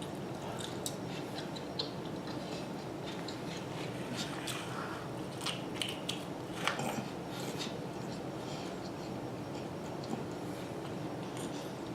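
Close-miked chewing and biting of food, with scattered short wet mouth clicks and smacks over a steady background hum; the sharpest smack comes a little past the middle.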